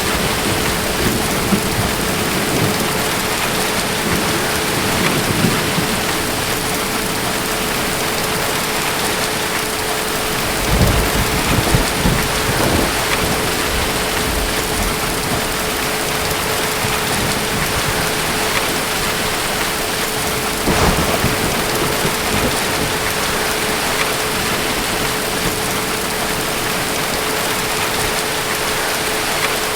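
Steady rain falling in a thunderstorm, with low rolls of thunder: a longer one about a third of the way in and a shorter one about two-thirds in.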